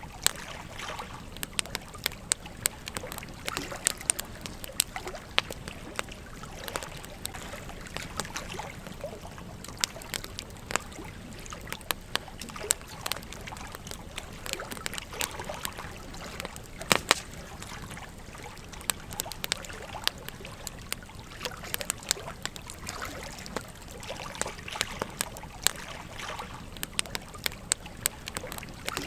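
Campfire crackling, with sharp snaps at irregular intervals and one especially loud snap about halfway through, over the steady trickle of a gentle stream.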